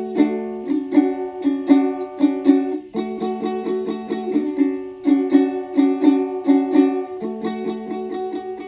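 Music on a plucked string instrument, rapid picked notes over chords that change about every two seconds, softening near the end.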